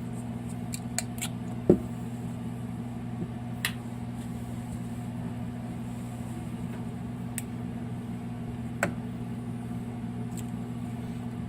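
A steady low hum from a running appliance or motor, with a few scattered light clicks and knocks of small objects being handled.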